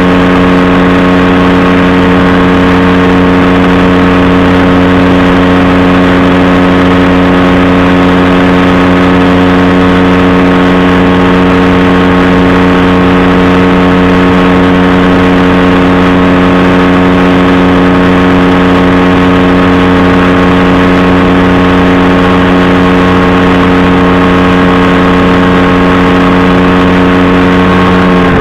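Powered parachute's engine and propeller running loud and steady at a constant cruise setting.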